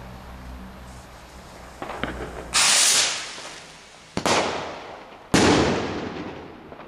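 Homemade black powder rocket firework display: a loud rushing blast about two and a half seconds in, then two sharp bangs about a second apart, each trailing off in a long echo. The two bangs fit the rockets' paired titanium-spiked flash powder salutes.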